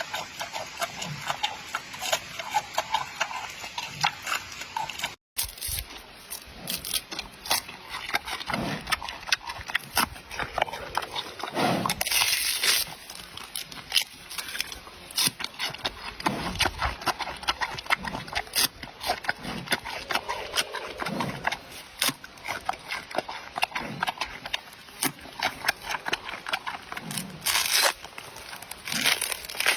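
Giant panda chewing bamboo: a dense run of sharp crunches and cracks as the stalks are bitten and ground.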